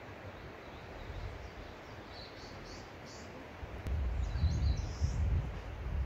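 Small birds chirping in short high notes over a steady outdoor hiss. About four seconds in, an uneven low rumble comes up and becomes the loudest sound.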